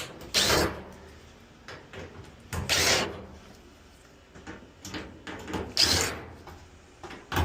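Three short scraping clunks, two to three seconds apart, as parts of a dryer are pulled loose and handled during disassembly.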